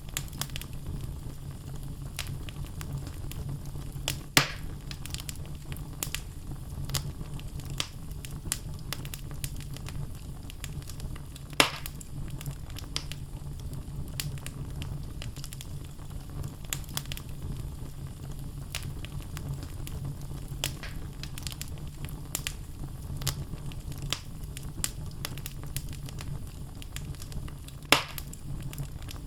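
Wood logs burning in a fireplace: a steady low rumble of the fire with frequent small crackles. Three louder pops stand out, about four seconds in, near twelve seconds, and near the end.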